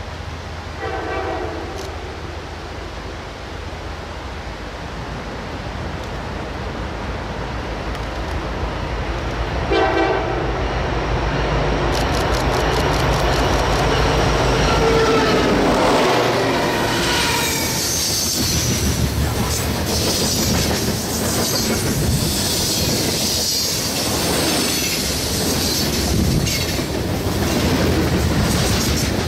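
Norfolk Southern diesel freight locomotive approaching with a steady low engine rumble, sounding two short horn blasts about a second in and about ten seconds in. It grows louder as it passes close by, then loaded hopper cars roll past with rhythmic wheel clatter and wheel squeal on the curve.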